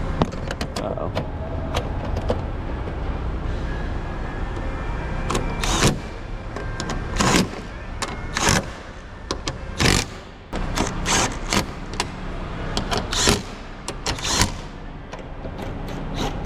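A steady low hum, with about a dozen irregular sharp clicks and knocks starting about five seconds in, the sound of parts being handled on the vehicle.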